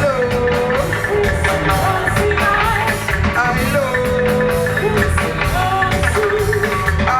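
Live roots reggae band playing an instrumental passage: a gliding lead melody line over a steady bass and drum groove.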